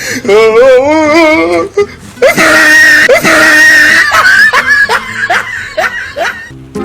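Loud screaming and shrieking: a wavering cry, then a long shrill scream, then a run of short cries each falling in pitch.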